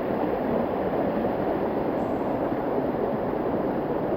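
Steady rushing of a small waterfall pouring into its pool.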